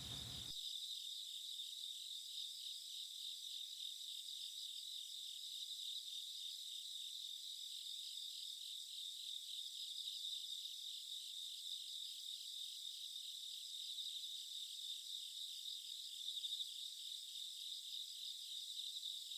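Faint, steady chorus of trilling insects, high-pitched with a fast, even pulse.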